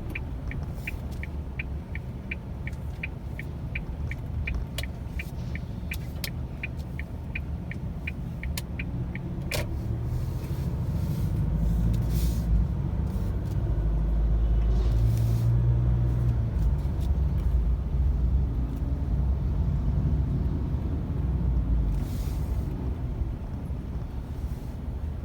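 Car's turn-signal indicator ticking steadily about twice a second, stopping about ten seconds in, over the low rumble of the car driving. The rumble grows louder in the middle and eases toward the end.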